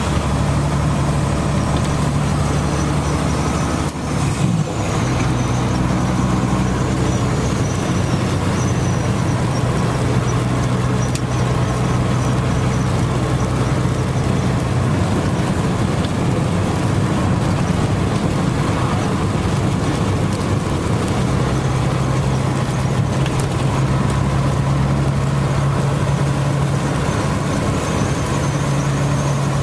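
Steady rain, with the low, steady hum of an idling engine underneath. The hum drops out for a few seconds midway and comes back.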